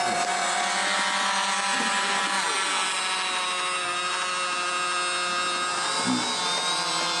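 Electric motors and gear drives of remote-control construction models whining steadily, a drill-like whine of several tones that slides in pitch a couple of seconds in as the load changes, with a short knock about six seconds in.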